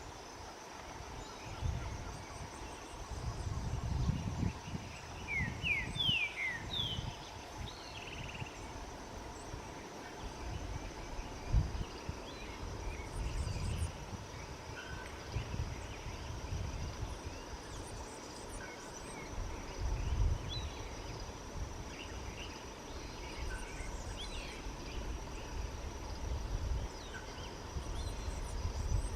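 Ochre-faced tody-flycatcher calling: a quick run of about five short, sharp notes about five seconds in, then fainter scattered short calls. Underneath there is a low, uneven rumble and a steady faint hum.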